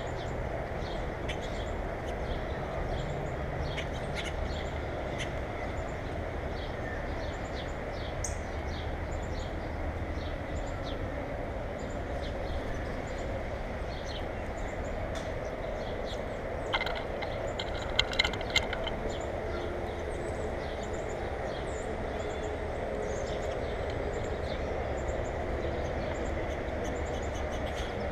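Small birds chirping in short, scattered calls over a steady background rush, with a few sharp clicks a little past halfway.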